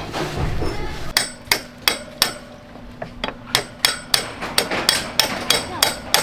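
Hammer blows on metal during a motorbike repair, about three a second. They begin about a second in, with a short pause near the middle, and each blow leaves a brief metallic ring.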